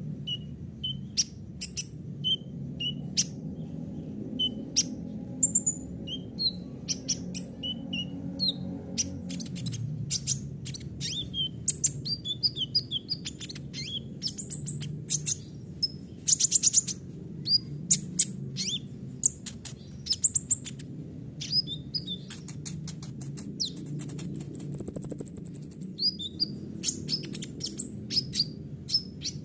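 Kolibri ninja (a sunbird) singing a fast, varied song of short high chirps, sharp clicks and quick trills, with a longer high buzzing trill about 25 seconds in. A steady low hum runs underneath.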